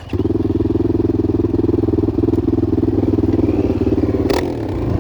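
Enduro motorcycle engine catching suddenly and running steadily after the fuel tap was switched to reserve, the bike having stalled for lack of fuel. A sharp click sounds near the end.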